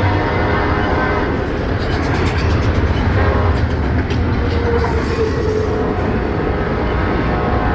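Freight train passing close by: diesel locomotive rumble and rail cars rolling on the rails, with clicks from the wheels. A horn chord dies away in the first second and a half.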